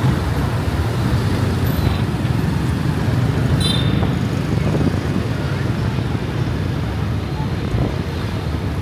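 Steady low rumble of road traffic and motorbike engine noise, heard while riding a motorbike through busy city streets.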